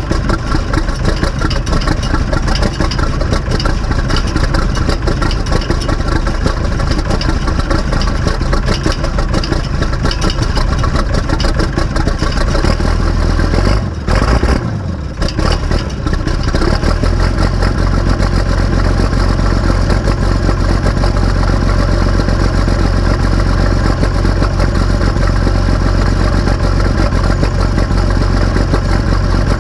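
Massey Ferguson 699's six-cylinder turbo diesel engine running steadily. About halfway through the sound drops away for a couple of seconds, then comes back with a heavier, steadier low hum.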